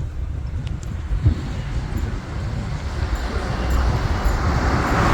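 Motorcycle engine and road noise: a steady low rumble, with a rushing noise building over the last couple of seconds.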